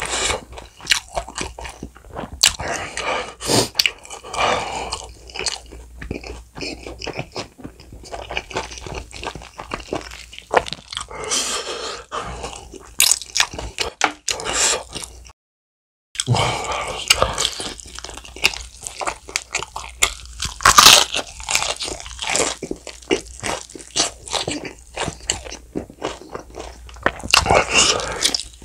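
Close-miked biting, crunching and chewing of sauce-glazed bone-in fried chicken, with sticky, wet mouth sounds between crisp crunches. The sound drops out to dead silence for a moment about halfway through.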